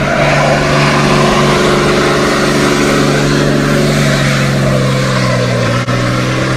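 Car engine held at steady high revs during a burnout, with the broad hiss of spinning tyres over it.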